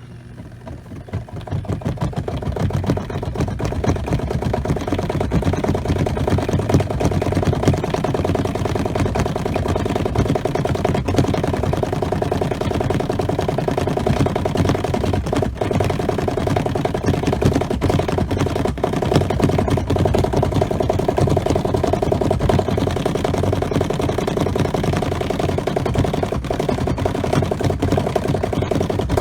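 Spin motor of a small electric twin-tub camp washer starting up about a second in, building up over a couple of seconds, then running steadily as the spin basket throws water out of the clothes.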